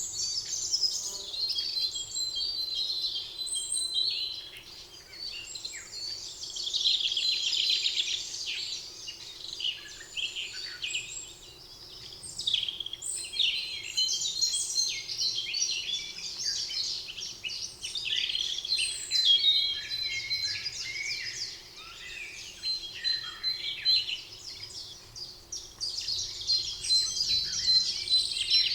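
Several songbirds singing at once in a spring forest: overlapping trills, chirps and repeated high whistled notes that come in waves, with no bird standing out.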